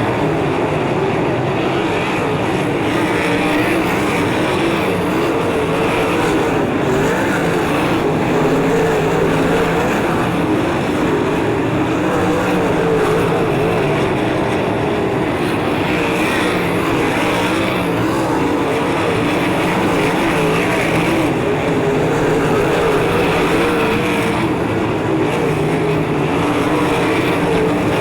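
A field of 360 sprint cars racing on a dirt oval, their methanol-burning V8s running hard at high revs. The engine pitch wavers up and down as cars lift and get back on the throttle through the turns.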